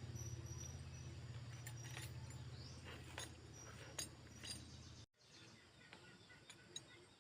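A steady low machine hum with a fast, even pulse, with a few light metallic clinks over it; the hum cuts off suddenly about five seconds in, leaving faint ticking.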